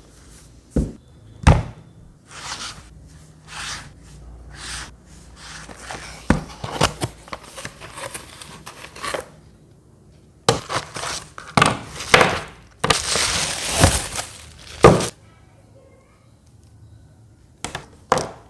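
Packaging being handled: plastic and wrapping crinkling and rustling in spells, broken by sharp clicks and knocks, with two short clicks near the end.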